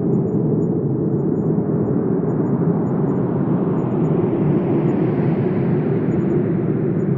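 Wind blowing steadily, a low, even rush that brightens slightly about halfway through and then eases back.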